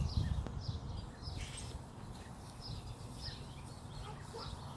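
Small birds chirping: a string of short, high chirps at irregular intervals, over a low rumble that fades in the first second.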